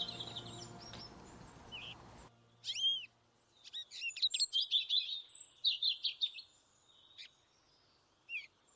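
Small songbirds chirping and twittering in quick bursts of short, high calls, with a few gliding notes. A soft music bed under them stops about two seconds in.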